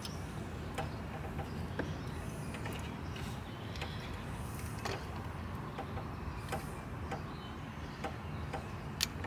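Scattered light clicks and taps of small parts being handled during hands-on work on a mower's carburetor linkage, over a steady low background rumble. One sharper click comes near the end.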